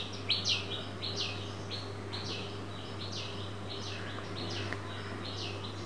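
A small bird chirping over and over, short high notes that fall in pitch, about three a second, with a low steady hum underneath.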